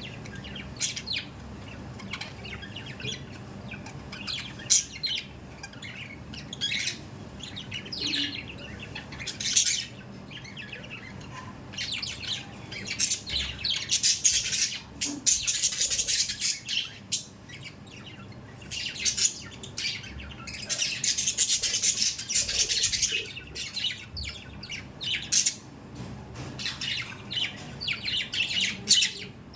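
Budgerigars chirping and chattering, many short high calls, thickening into dense chatter about halfway through and again a little later.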